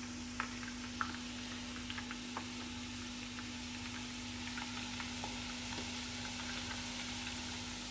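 Hot cooking oil sizzling steadily in a pot, with scattered crackling pops, a few sharper ones in the first couple of seconds, over a steady low hum.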